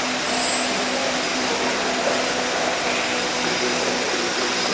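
NICECNC BD1325E CNC router's spindle running steadily while milling aluminium: an even, unbroken hiss with a constant hum under it.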